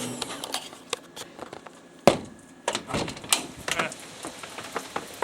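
A string of knocks and clatters, the loudest a sharp bang about two seconds in, with lighter clicks and handling noise around it.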